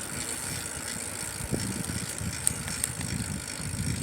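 Bicycle being ridden slowly: a low rolling rumble and rattle from the tyres and frame, with a few light clicks.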